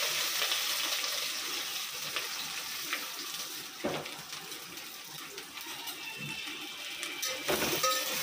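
Chopped capsicum and onion sizzling in oil that has got too hot in a steel pot, a steady hiss that eases off over several seconds. A couple of sharp utensil knocks against the pot are heard partway through and near the end.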